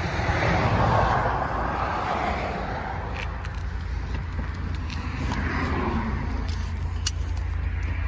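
A 1956 Studebaker Champion's flathead six running with a steady low rumble, swelling briefly about a second in, with a few light clicks in the second half.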